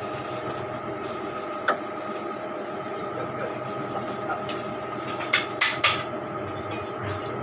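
Steady mechanical hum with a few sharp knocks: one alone, then three in quick succession.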